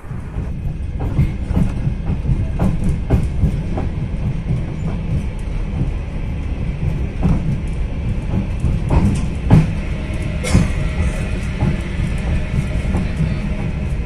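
Moving long-distance passenger train heard from inside the carriage: a steady low rumble of the wheels on the rails, with frequent irregular knocks and clatter.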